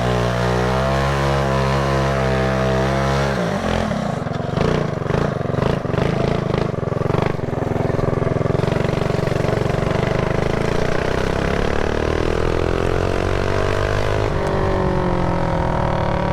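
Mini bike's small engine running under way, held at a steady pitch for the first few seconds. The throttle is then chopped about three and a half seconds in, and the engine runs unevenly and choppily for a few seconds. It then pulls again with the pitch climbing slowly, dropping briefly near the end before rising once more.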